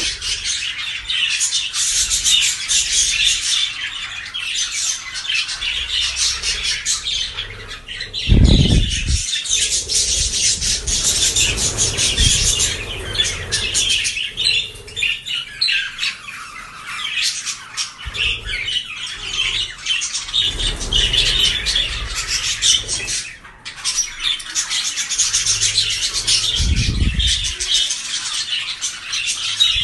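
Many birds chirping and squawking together in a continuous, busy chatter. A low bump is heard twice, about eight seconds in and near the end.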